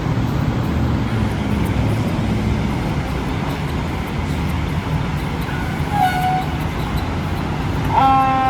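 Fire engine responding: a heavy low rumble of the engine and road noise, a short horn toot about six seconds in, and a loud steady horn blast starting near the end.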